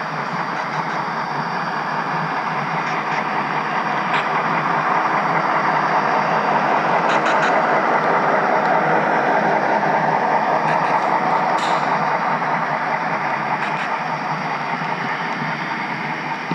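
HO scale model train rolling along the track: a steady rushing rumble of wheels and motor that swells and then eases off, with a few faint clicks.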